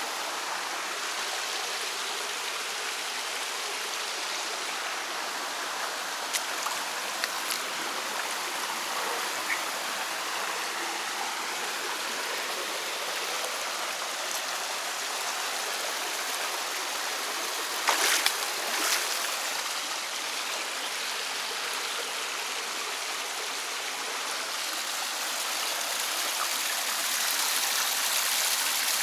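River water flowing steadily, a continuous rushing stream sound, with a few light clicks or knocks, two louder ones a little past the middle.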